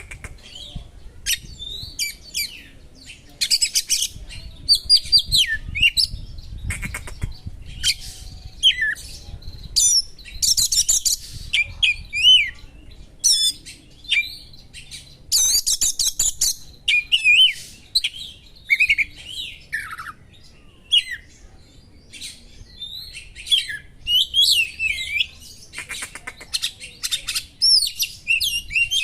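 Oriental magpie-robin (kacer) singing a fast, varied song of short whistles sliding up and down, broken by harsh chattering spells, the sharp small-bird 'material' used to provoke other kacer.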